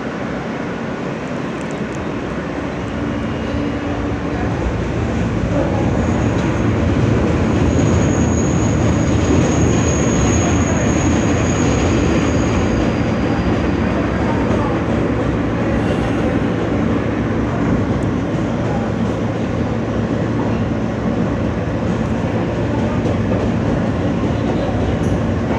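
Interior of an R160 subway car running between stations: a steady rumble of wheels on rail that grows louder over the first several seconds. A thin high tone sounds for several seconds in the middle.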